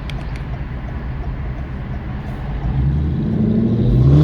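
2016 Ford Mustang GT's 5.0 V8 on a straight-piped exhaust with X-pipe and resonator delete, rumbling low at idle, then pulling away, getting louder and rising in pitch from about three seconds in.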